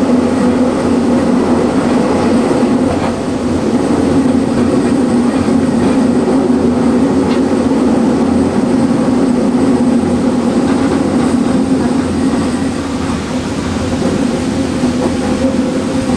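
Passenger train running at speed, heard from inside the carriage: a steady loud drone of wheels and running gear on the track, with a low hum throughout and a slight easing about twelve seconds in.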